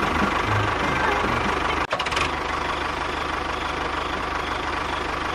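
A small engine or motor running steadily with a fast, even chugging pulse. It cuts out for an instant about two seconds in, with a few clicks, then carries on a little quieter.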